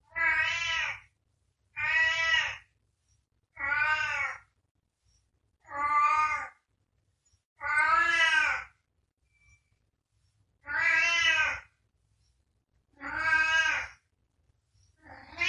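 A cat meowing over and over: about eight drawn-out meows, each close to a second long and about two seconds apart, with a slightly longer pause near the middle.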